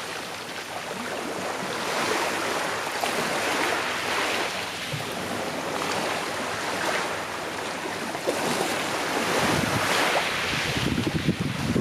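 Calm sea waves washing onto the shore, a steady hiss of surf that swells and eases every few seconds. A low rumble of wind on the microphone joins about nine seconds in.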